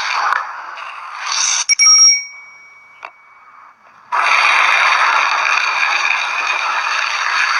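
Slime being squished and worked by hand, a dense noisy sound that fades out about half a second in. A short bell-like ding rings and dies away about two seconds in, and after a near-quiet gap the slime sound starts again abruptly about four seconds in.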